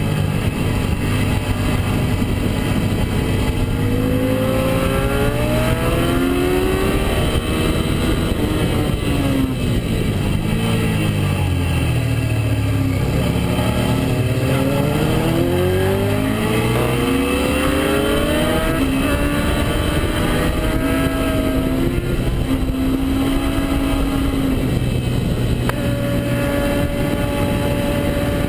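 Suzuki SV650S's 645 cc 90-degree V-twin heard from onboard at track speed. The revs climb, drop away to a low point about midway, then climb again and level off near the end, over a steady rush of wind and road noise.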